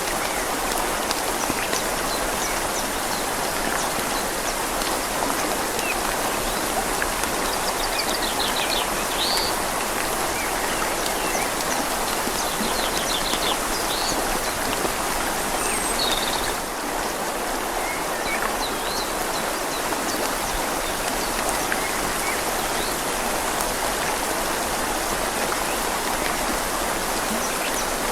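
Steady rain falling on leaves over a flowing river, a continuous even hiss. A small bird chirps and trills a few times in the middle.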